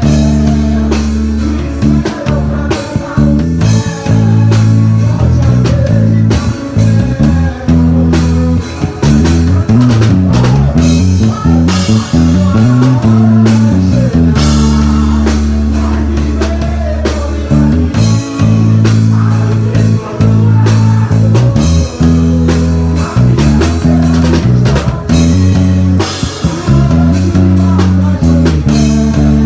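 A band playing an instrumental passage of a worship song on guitar, bass guitar and drum kit, with no singing.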